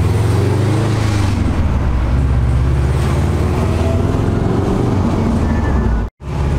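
1995 Subaru WRX STI's turbocharged flat-four boxer engine pulling the car along, rising in pitch in the first second, then running steadily. The sound cuts out briefly near the end.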